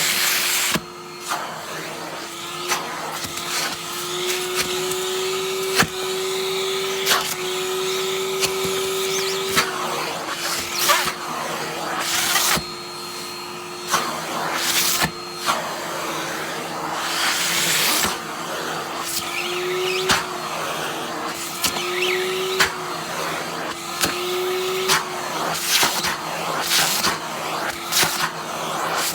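Henry cylinder vacuum cleaner running steadily over a padded down jacket. Its motor pitch rises and dips as the nozzle is partly blocked by the fabric. Sharp clicks and rattles from the zips are heard, with bursts of rushing air as the padding is pulled against the nozzle.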